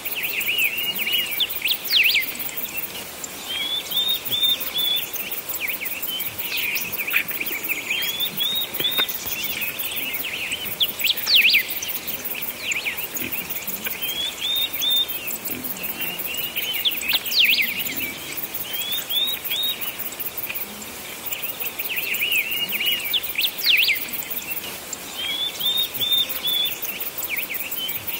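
Small birds chirping and singing, one repeating a short chirped phrase about every five seconds.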